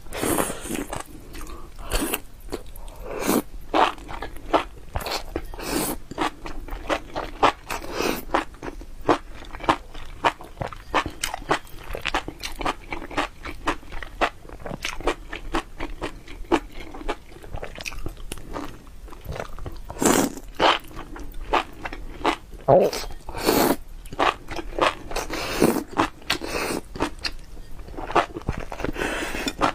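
Close-up chewing and biting of crunchy food: a dense, irregular run of sharp crunches, several a second.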